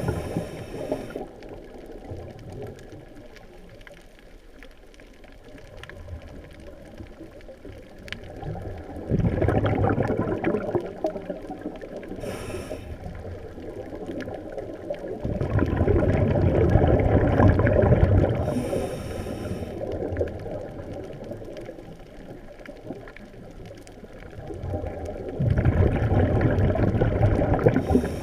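Scuba diver breathing through a regulator underwater: exhaled bubbles gurgle out in three long surges several seconds apart, with quieter stretches between breaths.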